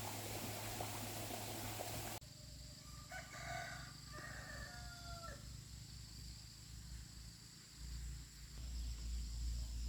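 A rooster crows once, a single call of about two and a half seconds that drops in pitch at the end. Before it, a steady hiss cuts off suddenly about two seconds in, and a low rumble comes in near the end.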